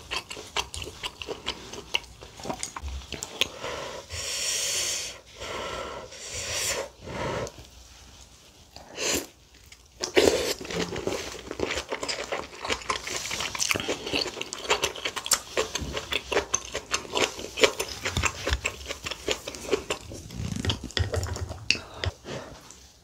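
Close-miked eating: a person chewing mouthfuls of rice and kimchi stew, with many quick mouth clicks throughout.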